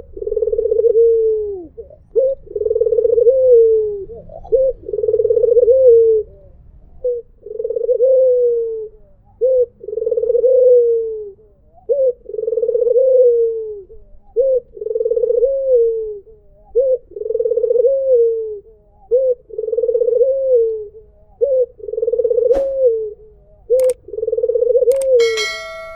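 White Barbary dove (puter) cooing over and over, each call a short note followed by a longer rolling coo, about one call every two seconds. A brief click and a short high tone come near the end.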